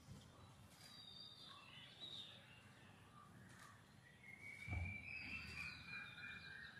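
Faint bird calls, several short gliding and wavering high notes, over quiet garden ambience. A single low thump about two-thirds of the way in is the loudest sound.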